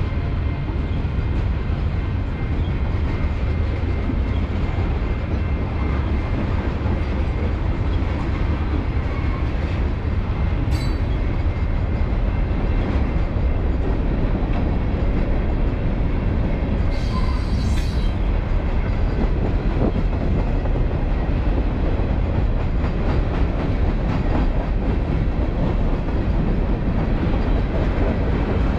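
Mixed freight train of tank cars, boxcars and covered hoppers rolling past: a steady heavy rumble of steel wheels on rail. Two brief high-pitched squeals stand out, one about a third of the way in and a longer one a little past halfway.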